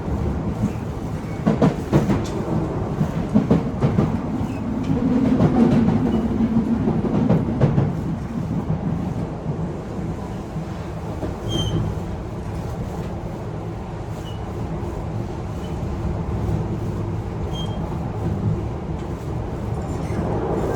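Running sound inside a Y000 series commuter EMU in motion: a steady rolling rumble from the wheels and rails. Clickety-clack of wheels over rail joints is heard repeatedly in the first half, then the running settles to an even rumble.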